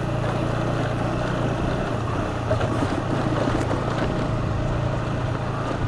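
Honda CBR150R sport bike's single-cylinder engine running steadily at a constant pace while riding, with wind rush over the microphone.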